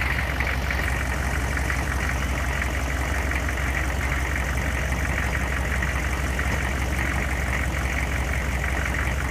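6.5-litre diesel in a 1997 Chevy 3500 one-ton truck idling steadily. Over the idle runs a steady whine from the snow plow's hydraulic pump working the plow.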